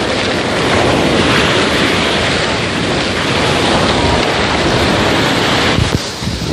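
Sea waves washing in on a beach under loud, steady wind noise on the microphone, with a brief dip near the end.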